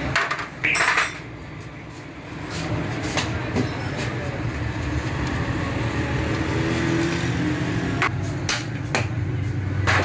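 Metal tools knocking and clinking on motorcycle parts during disassembly, a handful of sharp strikes, the loudest near the start and a quick run of three near the end, over a steady low hum.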